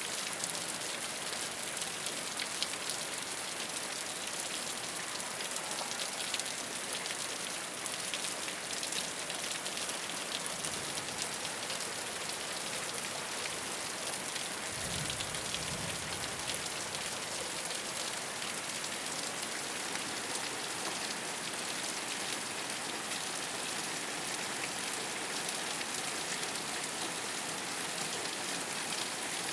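Steady rain falling on a rooftop, a dense hiss with many individual drops ticking. A brief low rumble comes through about halfway.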